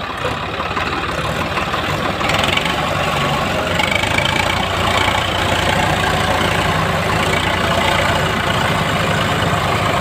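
Tractor diesel engine running steadily, getting louder about two seconds in and then holding at a constant speed.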